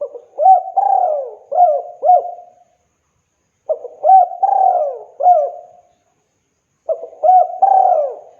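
Spotted dove (tekukur) singing its cooing song: three phrases about three seconds apart, each a run of coos that rise and fall in pitch.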